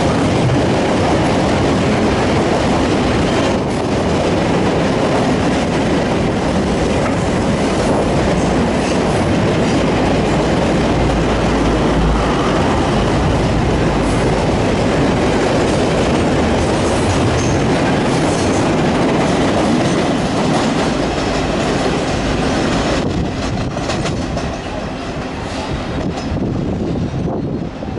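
Freight train of flat wagons loaded with shipping containers rolling past at close range: a steady rumble and clatter of steel wheels on the rails, growing quieter in the last few seconds as the wagons move away.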